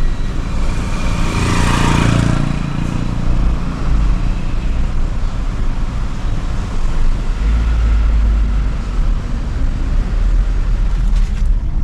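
Steady road and engine noise of a moving car with a low rumble, heard from inside. About two seconds in, a louder swell of engine noise rises and fades, like another vehicle passing.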